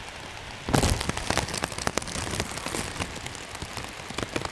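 Steady rain falling, with many sharp, close drop ticks. A loud, brief rush of noise comes a little under a second in.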